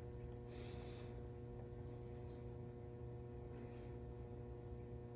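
Faint, steady electrical hum under quiet room tone.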